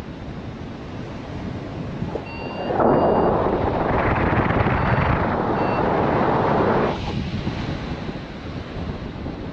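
Strong wind buffeting the microphone in flight, surging much louder for about four seconds in the middle before easing back to a steady rush. A few short high beeps sound faintly over it.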